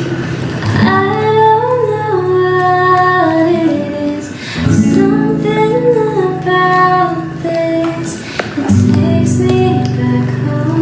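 Music: a female voice sings a melody over guitar accompaniment.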